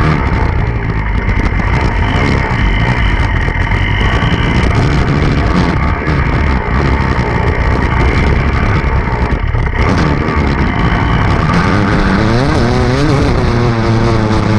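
Enduro dirt bike engine running hard, its pitch rising and falling as the throttle is worked, with a clear sweep up and down near the end.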